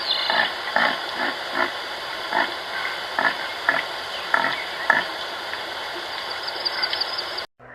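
An animal grunting in short, separate calls, roughly one or two a second, over a steady hiss.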